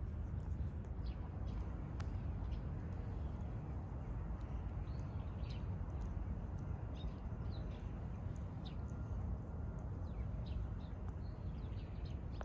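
Small birds chirping in short, high calls scattered throughout, over a steady low rumble of outdoor background noise.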